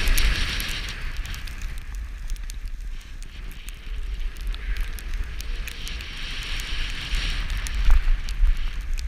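Skis hissing and scraping over snow, swelling near the start and again in the middle. Wind buffets the microphone with a steady low rumble, and there are scattered crackles.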